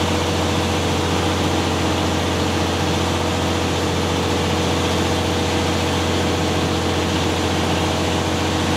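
Concrete pump truck's engine running steadily with a constant low hum and unchanging pitch, driving the truck's boom hydraulics.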